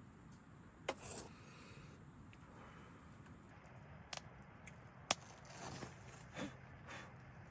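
A few sharp clicks and knocks with brief rustling and scraping, like small objects being handled, over a steady low background noise.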